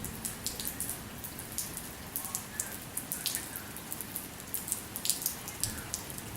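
Light rain falling, with many sharp, irregular drops and drips tapping on hard surfaces over a steady hiss.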